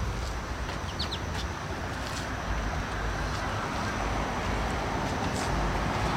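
Steady outdoor background noise with wind rumbling on the microphone, and a few brief high chirps about a second in.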